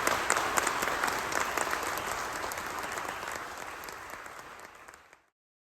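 Audience applauding, the clapping fading down steadily and cutting off to silence about five seconds in.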